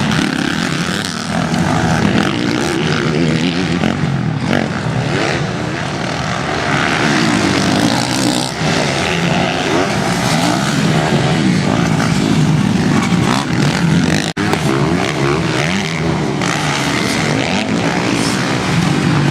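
Motocross bike engines running loudly on a dirt track, their pitch rising and falling as they rev, with a brief dropout about fourteen seconds in.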